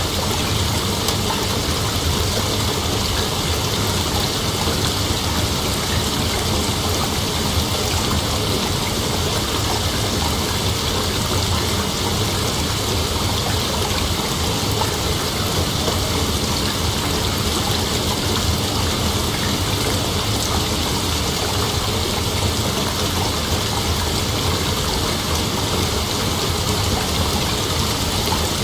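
Dense, steady chorus of night insects, a high-pitched hiss-like drone that runs on without a break, over a low steady hum.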